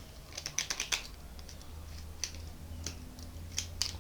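Small metallic clicks and taps from a padlock being handled at the bench: a quick run of clicks in the first second, then single clicks every half second or so. A faint low hum sits underneath.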